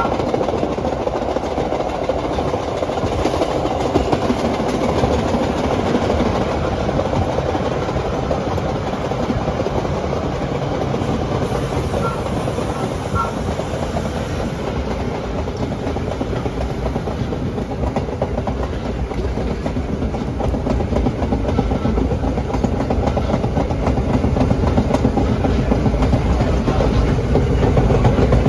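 Vintage R1/9 "Arnine" subway car running along the track, heard from on board: a steady rumble of steel wheels on rail with clickety-clack over the rail joints, growing a little louder near the end.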